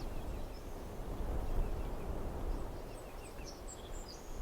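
Outdoor ambience: a steady low rumble with faint, short, high-pitched bird chirps scattered through it.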